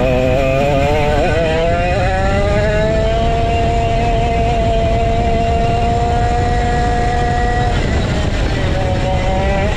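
Vintage go-kart's 135cc Sudam engine running hard: its pitch climbs over the first few seconds, holds steady at high revs, drops briefly near the end and climbs again, over a steady low rushing noise.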